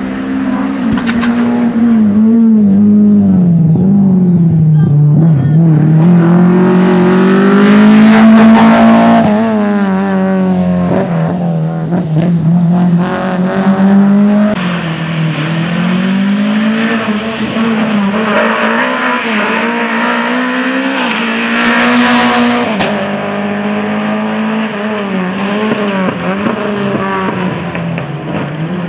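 Lada VFTS rally car's four-cylinder engine revving hard at racing speed. Its note climbs and drops again and again as it works through the sequential gearbox. It is loudest about eight seconds in, and a brief rush of noise comes about twenty-two seconds in.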